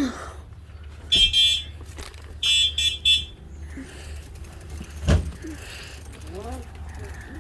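Two short bursts of a high, buzzing, alarm-like electronic tone, the second one stuttering in three parts. A single knock follows a couple of seconds later.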